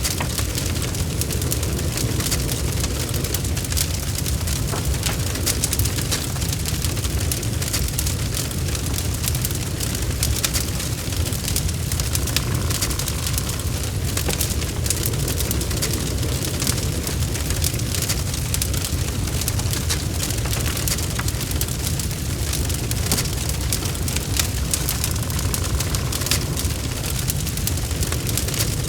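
Wood logs burning in a fireplace: a steady low rumble of flame with dense, constant crackling and popping.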